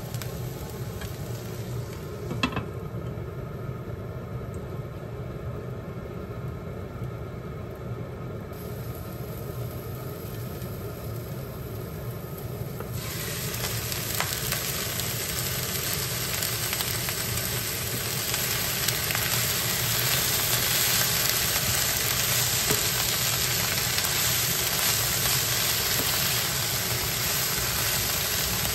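Broccoli, onion and bacon sizzling in a frying pan as they steam-fry, faint at first and then a loud, steady sizzle from about halfway, growing louder again a few seconds later. A single sharp click comes a couple of seconds in.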